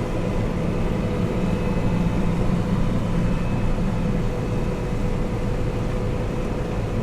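Steady drone of a running combine harvester, a John Deere 9770 STS, heard from inside its cab, with a faint steady whine over the engine noise.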